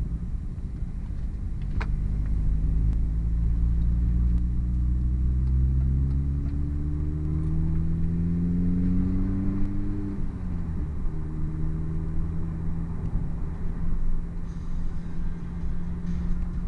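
Hartge-tuned MINI with a Hayward & Scott exhaust accelerating. The engine note rises steadily for several seconds, drops at a gear change about ten seconds in, then runs on at a steady pitch.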